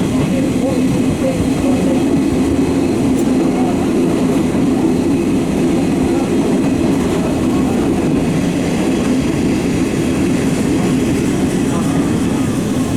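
Eizan Electric Railway electric railcar running along the Kurama Line, a steady rumble of wheels on rail and running gear heard from inside the car.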